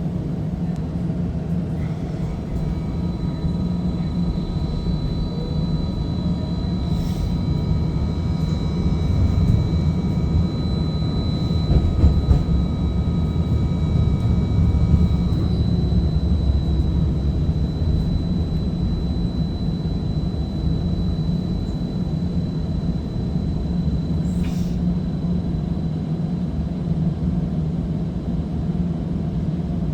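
Seattle First Hill Streetcar heard from inside the car while running: a steady low rumble with a high, steady whine of its electric drive through the first half that fades out near the middle, and a couple of brief ticks.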